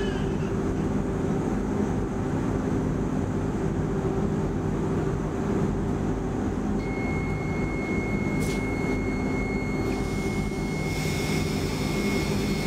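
Interior hum of an X10 commuter train standing at a platform, its electrical equipment running with a steady low drone. A thin, high, steady tone comes in about halfway through and stops just before the end.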